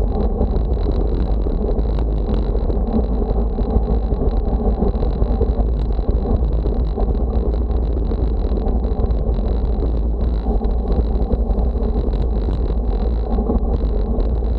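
Steady wind rumble buffeting the microphone, loud and unbroken, with a faint constant high whine over it.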